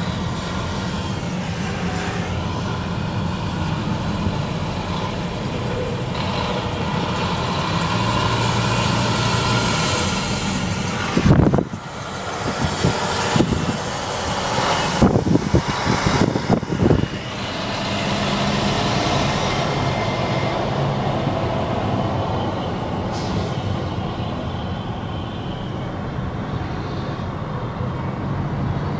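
Car driving on a highway: steady engine and road noise, with a few seconds of louder, irregular buffeting near the middle.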